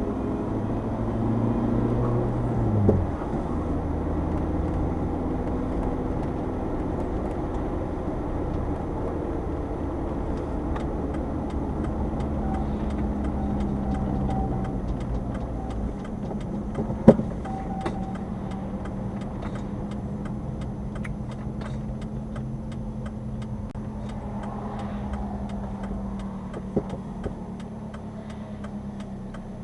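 Subaru Sambar kei truck's rear-mounted engine running on the move, heard from inside the cab. The engine note drops suddenly about three seconds in as the revs fall. A single sharp knock comes about halfway through, with a couple of lighter clicks near the end.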